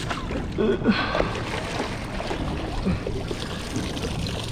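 Steady wind and water noise around a small fishing boat, with a low rumble throughout and a brief murmur of voice about a second in.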